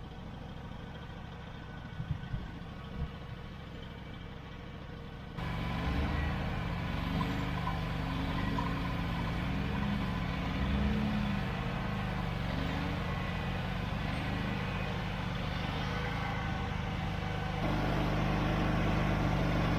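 A vehicle engine running steadily. About five seconds in, the sound jumps to a louder engine with a broad rushing noise that runs on steadily.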